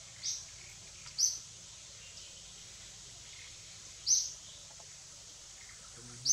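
Four short, high-pitched bird chirps at uneven intervals over a steady faint background hiss.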